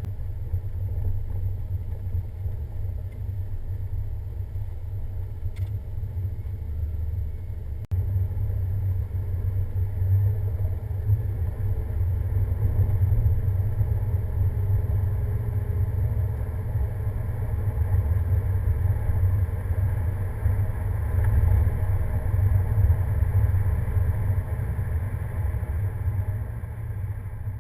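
Pickup truck driving on a snow-covered winter road: a low, steady engine and road rumble, with a brief break about eight seconds in.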